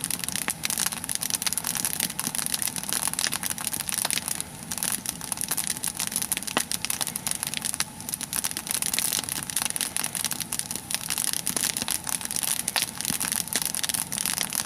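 Nodya log fire burning, its coals and twigs crackling steadily with many small pops.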